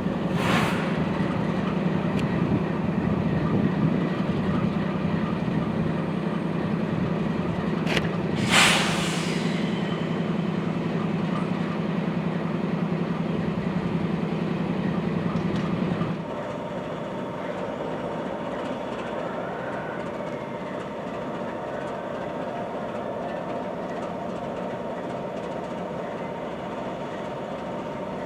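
Freight train sounds: a diesel locomotive running steadily, with two short sharp hisses about half a second and eight seconds in. About sixteen seconds in the sound cuts to a quieter, steady rumble from another train.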